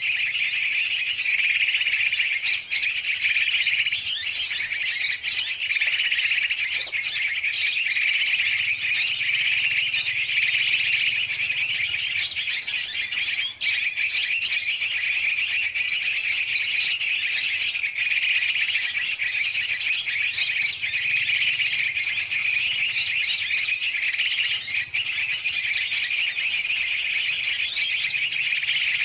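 Bird-lure recording for attracting yellow-vented bulbuls: a dense, continuous chatter of many large and small birds calling noisily together. About a third of the way in, a high rattling trill starts to repeat every second or two over the chatter.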